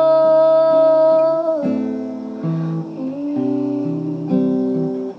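Acoustic guitar strumming chords as the accompaniment to a worship song. A woman's sung note is held over it for about the first second and a half, then the guitar plays on alone.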